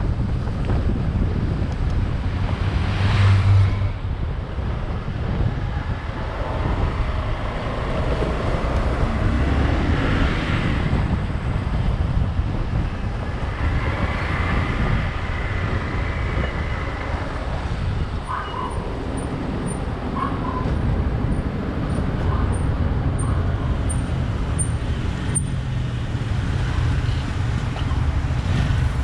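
Motorcycle riding through city traffic: a steady low rumble of engine and road noise. A few short high tones come in about two-thirds of the way through.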